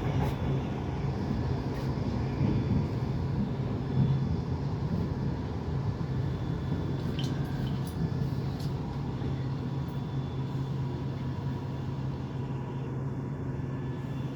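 Piccadilly line 1973 Stock tube train running, a steady rumble with a low hum and a few faint clicks.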